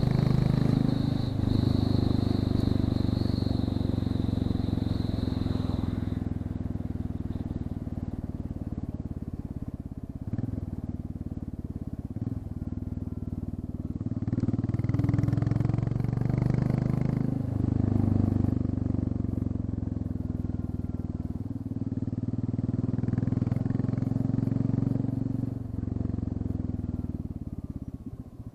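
Royal Enfield Classic 350's single-cylinder engine running through an open exhaust, with the end silencer removed and only the header pipe and its small catalytic converter left. The engine speed rises and drops several times as the bike is ridden, and the sound fades away near the end.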